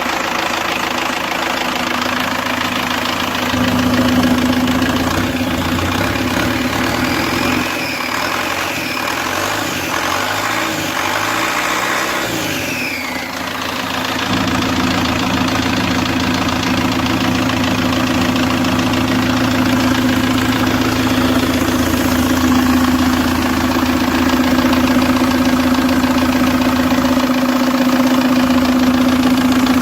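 Mercedes-Benz OM364LA four-cylinder turbo diesel engine running at idle with a steady hum. About eight seconds in the low rumble thins and a high whine rises, then falls away a few seconds later before the steady idle resumes.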